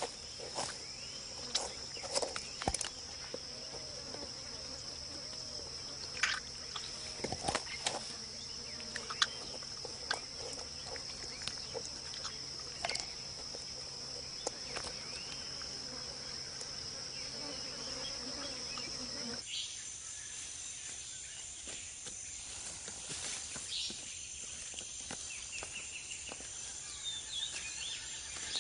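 Rainforest insects droning steadily at a high pitch while a jaguar's jaws crunch and crack a turtle's shell in scattered sharp snaps. About two-thirds of the way through, the drone gives way to a different insect chorus with a few high chirps.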